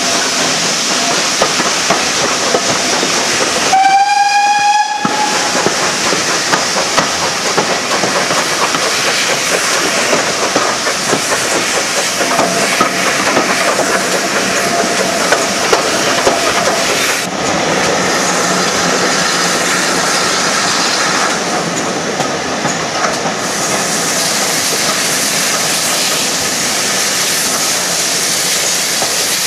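A train running along the line, with a steady rumble and the clatter of wheels over the rail joints. A single short train whistle sounds about four seconds in.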